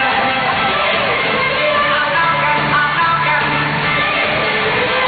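Live band music in a rock style, with guitar prominent, played without pause.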